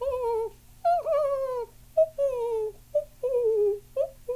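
A man imitating the cooing of a ring-necked dove with his voice: a run of coos, each a short note followed by a longer one that falls slightly in pitch, about one a second.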